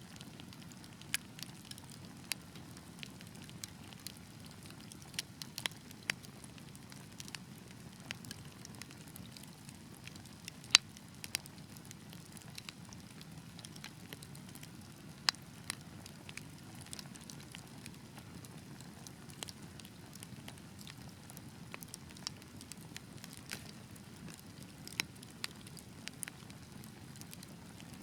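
Wood fire burning with a steady low rumble of flames and scattered sharp crackles and pops, the loudest pop about eleven seconds in.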